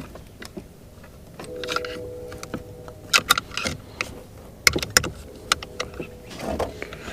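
Scattered clicks and knocks of hand tools and plastic and metal parts being handled while a boat remote control is taken apart, the sharpest in a cluster about three seconds in and again around five seconds. A faint steady hum sits underneath from about a second and a half in.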